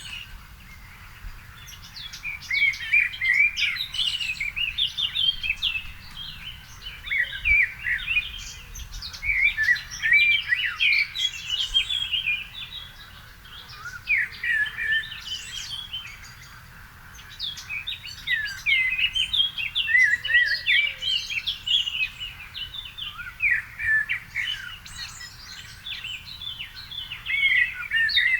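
Evening birdsong: songbirds singing in quick, varied phrases of a few seconds with short pauses between them, over a faint low background rumble.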